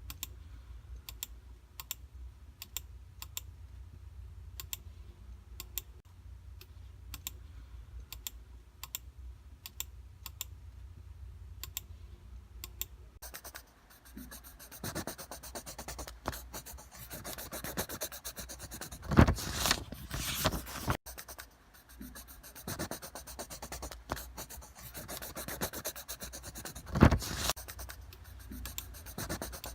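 A steady run of light clicks over a low hum for about the first half, then a scratchy rubbing noise with two loud knocks.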